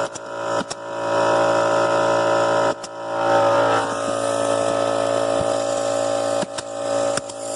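Electric power tool motor running at a steady whine, broken by a few sudden cuts and restarts.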